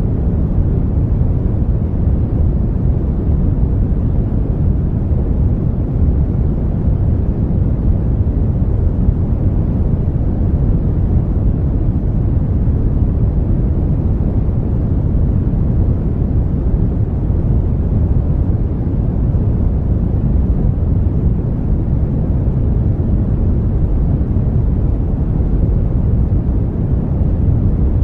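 Brown noise: a steady, even rumble of noise, strongest in the deep low end and fading away toward the treble, with no change over the whole stretch.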